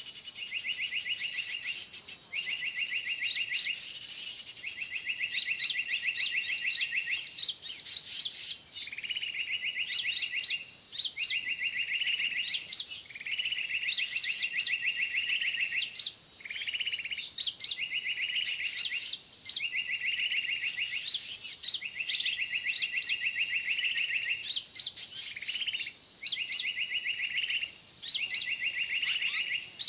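Bird-trapping lure recording of bird calls playing: a rapid buzzy trill repeated over and over with short breaks, under higher scattered chirps.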